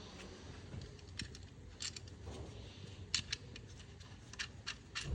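Hand tools clicking against metal as bolts are worked on: scattered sharp metallic clicks, a few at a time, coming quicker near the end.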